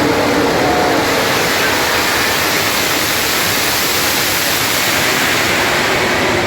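A full grid of MotoGP race bikes pulling away from the start line, their engines blending into one loud, steady noise with no single engine standing out.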